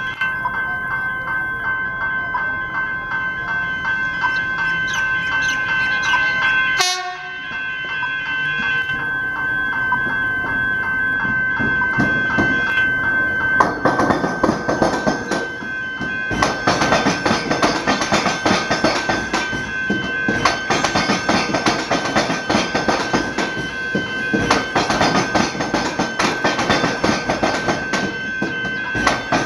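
Electric rail vehicle passing the level crossing of tram and train tracks, with a steady high whine. From about halfway through there is a dense rapid clatter of wheels over the crossing and rail joints.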